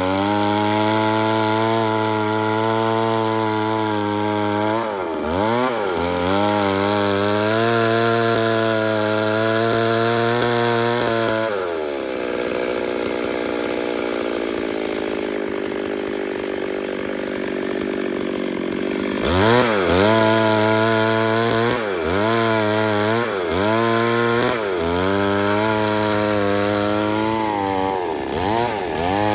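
Two-stroke chainsaw running at high revs while cutting wood, its pitch sagging again and again as the chain bites. About twelve seconds in it drops to a lower, steady speed for about seven seconds, then revs back up and cuts again with repeated dips in pitch.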